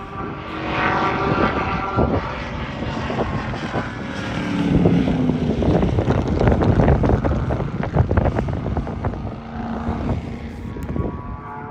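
Race car engines at speed on a track, passing by. One engine's note slides down in pitch about halfway through, with crackly, gusty noise throughout.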